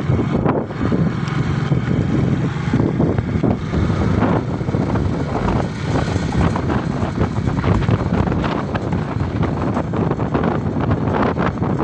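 Motorcycle riding along, its engine and road noise buried under steady wind buffeting on the microphone.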